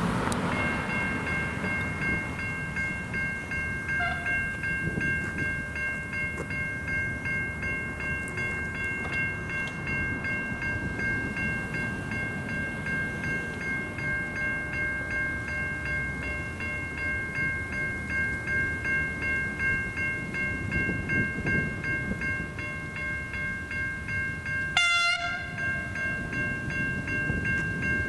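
Level crossing electronic bells (older-style Safetran Type 3 e-bells) start ringing about half a second in and keep up a steady, evenly pulsing ring, with a low rumble beneath. A brief sudden noise breaks in once near the end.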